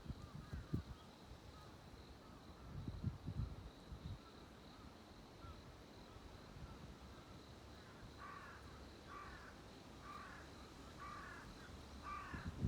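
Birds calling at daybreak: faint chirps throughout, then a series of five harsh calls about a second apart starting about eight seconds in. Under them runs a steady, high, pulsing tone. A few low thuds come in the first four seconds.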